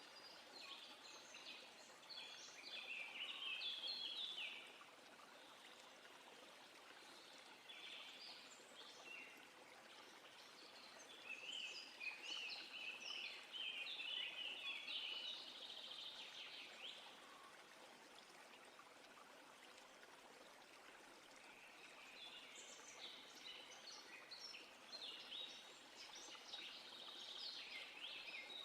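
A songbird singing in phrases of rapid, jumbled high notes a few seconds long, four times with pauses between, over a faint steady hiss.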